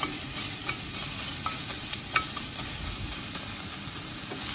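Onions and peppers frying in a hot pan, a steady sizzle with a few sharp clicks over it.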